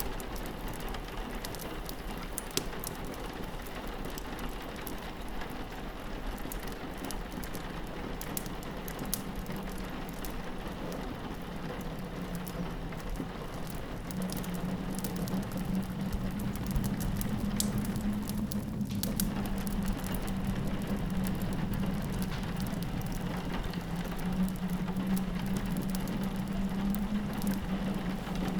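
Rain pattering steadily on a window pane, mixed with the fine crackle of a wood fire in a fireplace. A low steady hum comes up partway through and grows louder about halfway in.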